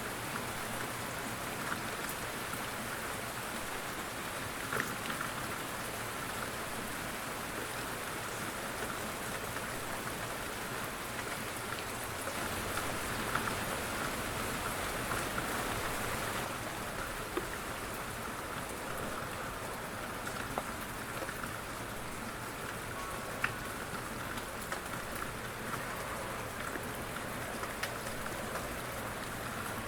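Steady light rain falling, an even patter of drops with occasional single drops ticking more sharply.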